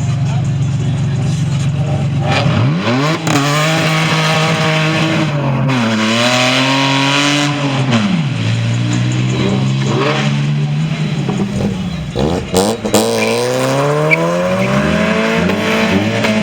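A car engine running at a steady idle, then revved up and let fall back several times, its pitch climbing and dropping in long sweeps with each rev.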